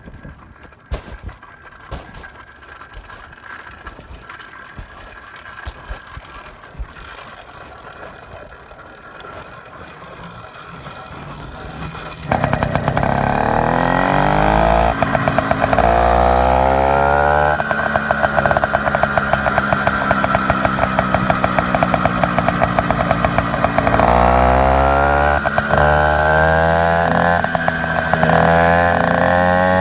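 Motorized bicycle's small engine, fitted with an upgraded exhaust, catching abruptly about twelve seconds in after a stretch of light clicking and rattling. It then revs up in rising sweeps and holds at high revs, drops off briefly and revs up again in several sweeps near the end.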